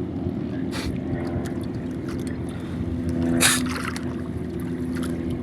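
Boat engine running steadily, with a few short sharp noises over it, the loudest about three and a half seconds in.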